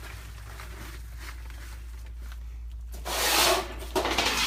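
Rubbing and handling noise over a steady low hum, with a few faint clicks; a loud rubbing noise comes about three seconds in and a shorter one near the end.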